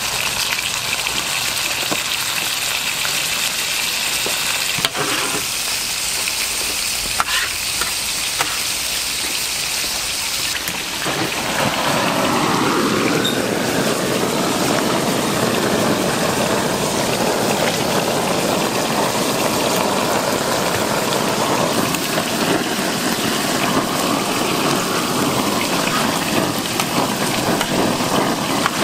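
Pork offal sizzling and frying on a hot grill as a steady hiss. About eleven seconds in, a louder, deeper rushing noise joins in and stays.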